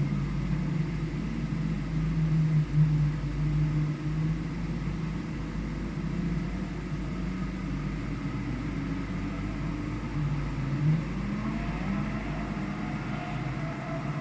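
Engine of a vehicle being driven on a race circuit, its pitch rising and falling with the revs over a steady rushing noise.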